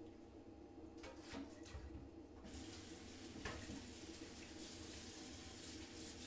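A faint water tap turned on about two and a half seconds in and running with a steady rush, after a few light clicks and clatters.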